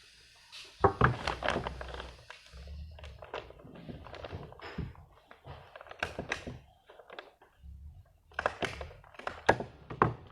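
Irregular knocks, thuds and clicks of objects being handled and set down, the sharpest about a second in and again near the end.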